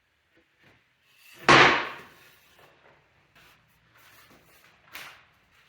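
Cut plywood pieces being handled on a workbench: one loud knock about one and a half seconds in as a piece is set down hard, then a few faint clicks and a smaller knock near the end.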